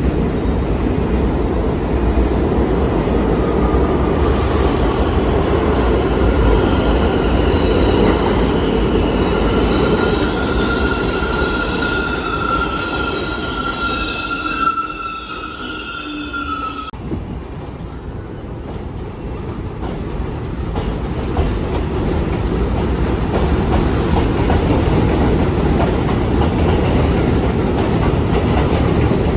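New York City Subway 1 train running, with a steady rumble of wheels on rail. About four seconds in, a high wheel squeal of several ringing tones sets in. It holds for some twelve seconds and then cuts off suddenly, and the rumble eases before building up again.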